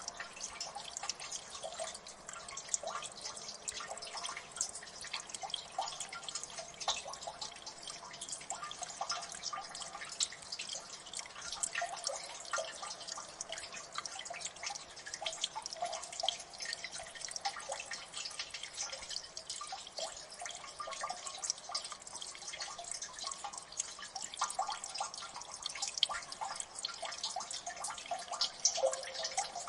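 Water dripping in a gully: many quick, irregular drips and plinks.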